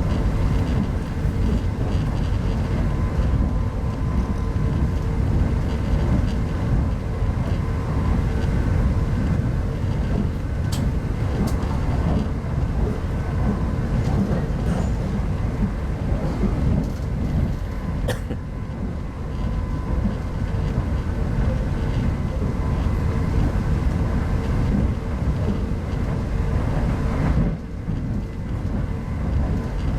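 Steady low rumble of an RZ25T passenger coach running along the line, heard from inside the coach, with a faint steady hum and a couple of sharp clicks.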